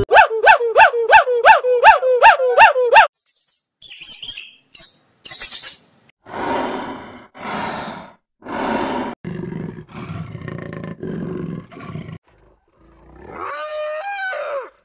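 A run of different animal calls. It opens with a fast series of about a dozen short, pitched calls, about four a second. Then come a few high chirps, a string of harsh, rasping calls about a second apart, and one wavering call near the end.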